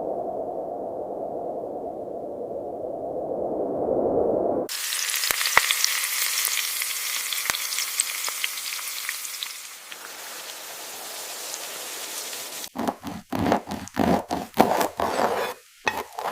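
A low rushing noise, then, after an abrupt cut about five seconds in, food sizzling in a hot pan with scattered crackles. The sizzle quietens and gives way near the end to a run of short, uneven scraping or stirring sounds.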